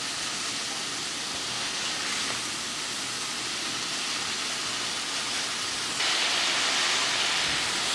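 Chunks of spiny dogfish sizzling in hot olive oil in a frying pan with onions and leeks: a steady hiss that gets louder about six seconds in, as more pieces go into the pan.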